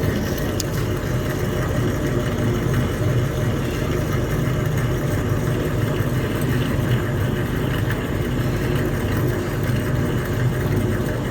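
Utility exhaust fan running at full speed: a steady hum and rush of air, even and unchanging.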